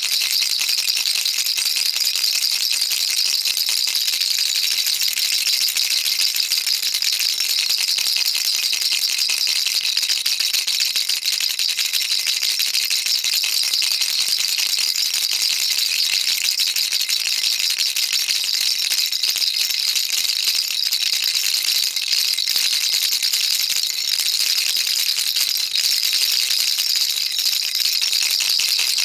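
Baby rattle shaken continuously, a dense, steady rapid clatter of small beads with no pauses.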